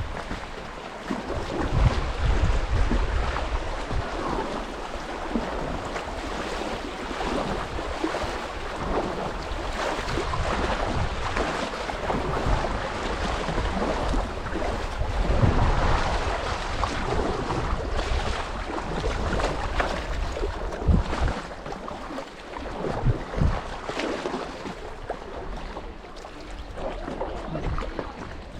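Creek water rushing and splashing around a kayak, with wind buffeting the microphone in low rumbles that swell and fade several times.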